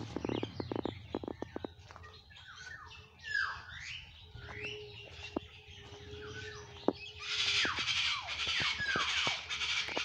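Mixed calls of caged birds in forest aviaries: chirps, squawks and down-slurred whistles, building into a dense chattering chorus from about seven seconds in. A quick run of clicks comes in the first two seconds.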